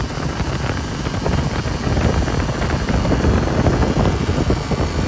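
Old farm truck on the move: engine and road noise blended with wind buffeting the microphone, a dense steady rush with quick crackles throughout.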